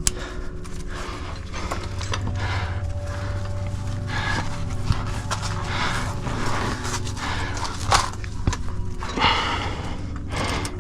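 A climber's body and shoes scraping and rubbing against the sandstone while squeezing up a chimney, with a few sharp clicks and knocks.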